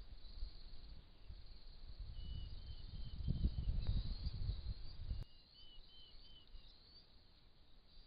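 Insects chirring steadily in a high band, with short repeated chirps in two runs. A low rumble builds through the middle and cuts off suddenly about five seconds in.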